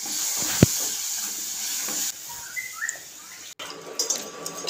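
Mustard, garlic and chilli paste sizzling in hot oil in an iron kadai as a spoon stirs it, with one sharp clink of the spoon on the pan about half a second in. The sizzle drops away after about two seconds.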